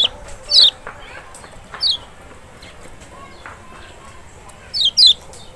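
Kecial, the Lombok white-eye (Zosterops chloris maxi), calling in short, quickly falling high chirps: one at the start, one about half a second in, one near two seconds, then a quick pair near the end.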